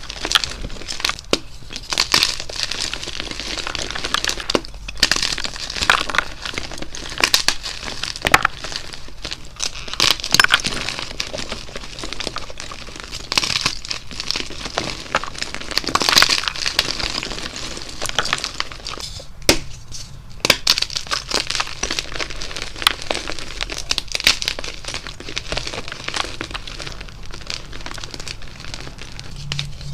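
Blocks of gym chalk being crushed and crumbled by hand, a dense run of irregular crunching and crackling with sharp snaps mixed in and a couple of brief lulls.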